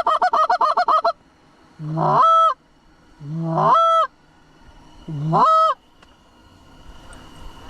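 Canada goose calling: a fast run of clucks, then three long honks a little over a second apart, each rising in pitch, holding and breaking off sharply.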